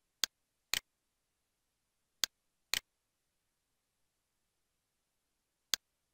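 Computer mouse clicks in pairs, each pair half a second apart: two pairs, then a single click near the end.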